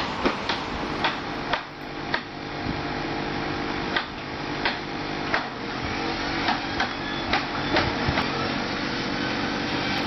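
A small motor humming steadily, with irregular light clicks and knocks, roughly one or two a second.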